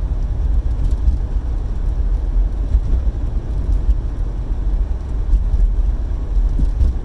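Car on the move: steady low rumble of road and engine noise.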